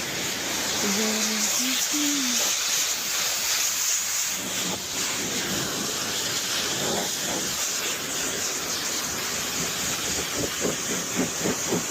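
Pressure washer jet spraying water, a steady hiss. A few short rising-and-falling tones sound about one to two seconds in, and a run of quick pulses comes near the end.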